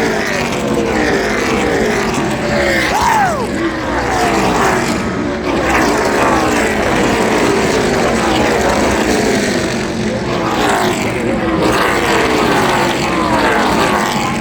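NASCAR Truck Series race trucks' V8 engines running past one after another, each pitch dropping as it goes by.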